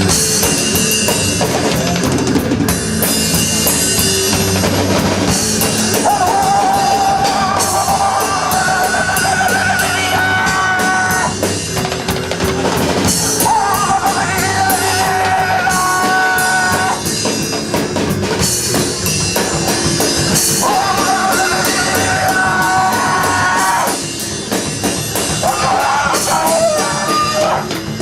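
A rock band plays, with a drum kit hitting steadily throughout. Over it a melody line holds long, slightly wavering notes in four phrases, each a few seconds long.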